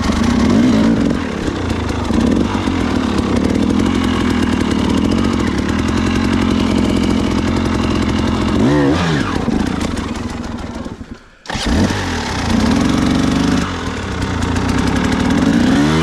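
Dirt bike engine running under load on a trail climb, its pitch rising and falling with the throttle. It fades and drops out for a moment about eleven seconds in, then comes back at full level.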